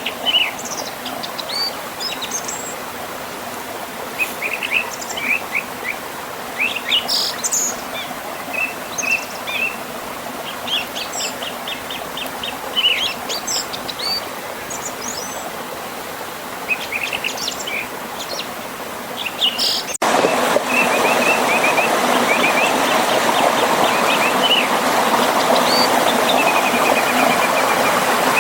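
Several songbirds chirping and trilling over the steady rush of flowing river water. About two-thirds of the way through, the water noise cuts abruptly to a louder level, and the birds carry on above it.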